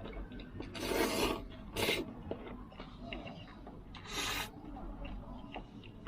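A person eating noodles: three short noisy slurps, about a second in, near two seconds and just past four seconds, with small chewing clicks in between.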